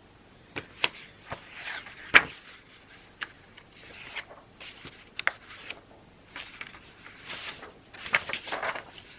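Writing on paper with a ballpoint pen or mechanical pencil: short scratchy strokes in bursts, broken by sharp clicks and taps of the pen. The loudest tap comes about two seconds in.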